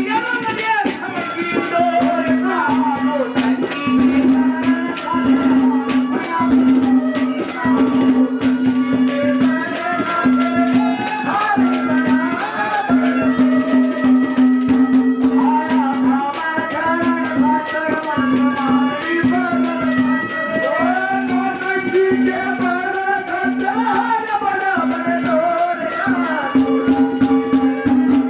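Haryanvi folk music: a hand-drum rhythm under a winding melodic lead, with a low held note that keeps breaking off and returning.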